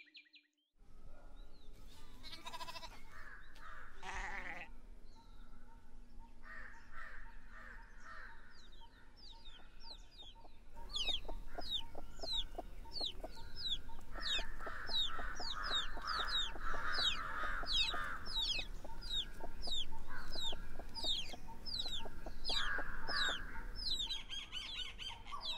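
Village ambience: chickens clucking, with a small bird calling in short falling chirps about twice a second from about a third of the way in.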